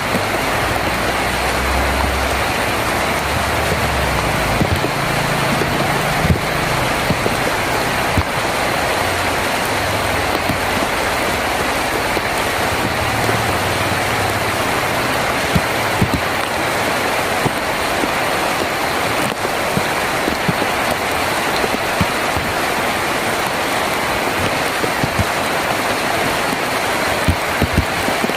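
Steady heavy rain drumming on a tin roof, with scattered sharper drop ticks. A low rumble sits under the rain for roughly the first half and fades away.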